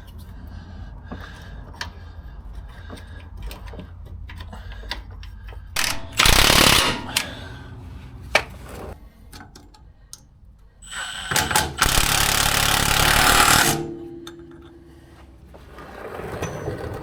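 Impact wrench run in two bursts, the first about a second long and the second about two seconds, driving suspension bolts, with small clicks of tools between the bursts.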